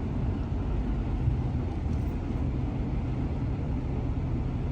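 A vehicle's engine and road noise as a steady low rumble, a truck on the move towing a dump trailer loaded with gravel.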